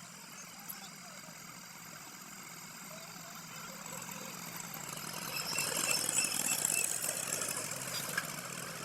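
Tractor engine running steadily, growing louder about halfway through with a rush of hiss, then easing off near the end.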